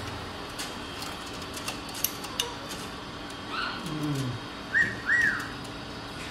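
Two short whistled notes, each rising then falling, in a quick pair about five seconds in, just after a shorter call and a low falling glide.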